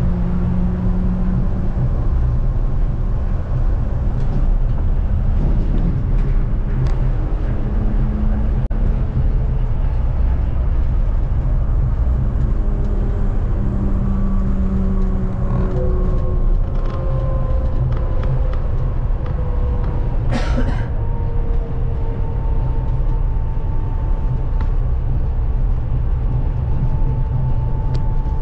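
Kanazawa Seaside Line rubber-tyred automated guideway train running, a steady low rumble with the whine of the traction motors shifting in pitch and slowly falling over the second half. A single sharp click comes about two-thirds of the way through.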